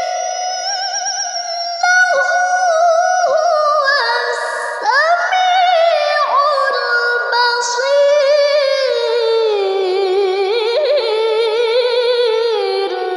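A woman reciting the Quran in a melodic, chanted style, drawing out one long ornamented phrase with rapid wavering turns of pitch. The line sinks lower about two-thirds of the way through and begins to fade at the end.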